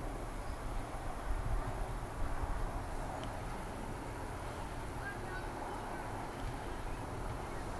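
Steady outdoor background noise: a low rumble and a hiss, with nothing standing out.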